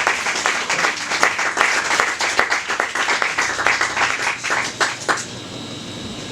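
Small audience clapping, thinning out and stopping about five seconds in, leaving a low steady hum.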